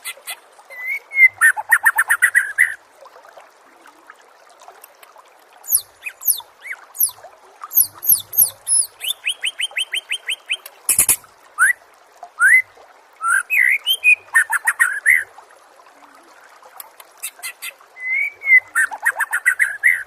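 Songbird singing in phrases with short pauses between them: rapid trills, rising whistled notes and high chattering runs. There is a sharp click about eleven seconds in.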